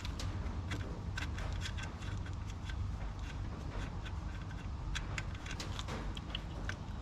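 Socket ratchet clicking in irregular runs of light ticks while a 10 mm nut is undone from the alternator's terminal.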